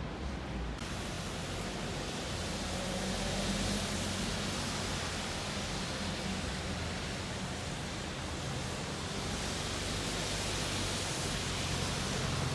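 Steady rushing road noise with a low engine hum underneath, from motor traffic.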